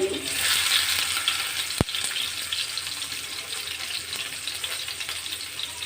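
Chopped onions sizzling in hot oil in a pan. The sizzle flares up at the start as they go in, then settles to a steady hiss, with one sharp knock a little under two seconds in.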